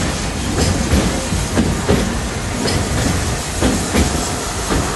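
Narrow-gauge steam train's passenger car running along the track, heard from aboard: a steady low rumble of wheels on rails with irregular clicks and clacks.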